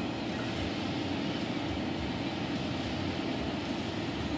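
Automatic car wash running, a steady even rush of its water spray and machinery heard from inside the car.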